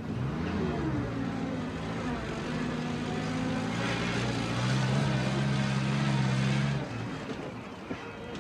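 Engine of a Tarpan off-road vehicle running as it drives. Its pitch rises in the first second, then holds steady and grows louder in the middle, before dropping away about seven seconds in.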